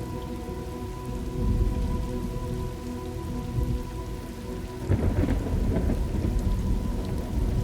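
Steady rain with rolling thunder; a louder rumble of thunder breaks about five seconds in.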